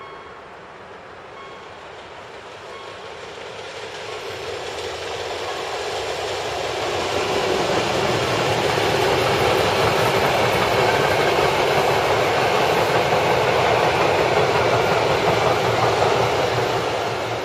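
Passenger train hauled by an SM42 diesel locomotive passing close by. The steady noise of carriage wheels on the rails grows louder over the first several seconds, then stays loud as the carriages and locomotive go past.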